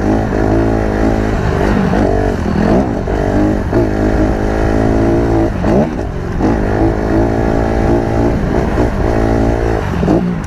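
Dirt bike engine being ridden hard, its pitch rising and falling again and again with the throttle and gear changes.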